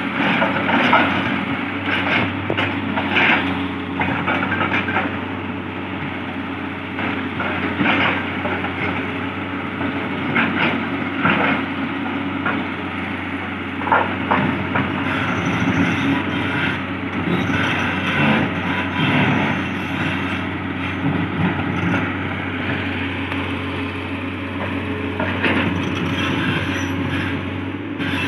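Hitachi 200-class excavator's diesel engine running steadily under load, with irregular knocks, cracks and scrapes of rock as the machine works a hard black-stone face.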